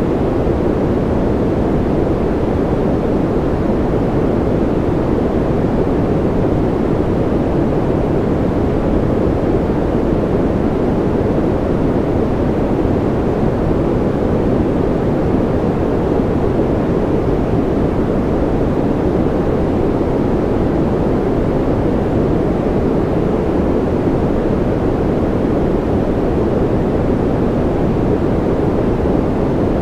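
Steady generated sleep noise, a continuous even hiss with a dull, low-weighted tone and no change or events in it.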